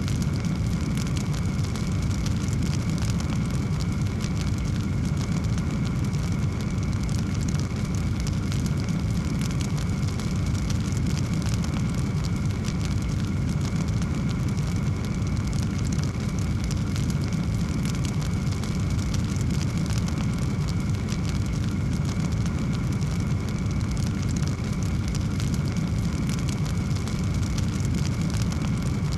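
Wood fire in a fireplace crackling steadily over a low, even rumble of flame.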